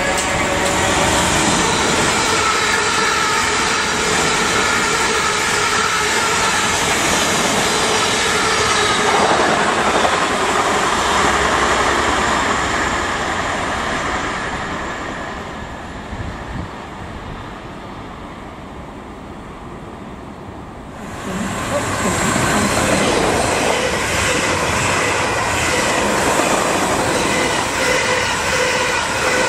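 Electric multiple-unit trains running through a station at speed: a steady rush of wheels on rail with light wheel squeal, which fades over roughly the middle of the stretch, then rises sharply again about 21 seconds in as a second train sweeps past close by.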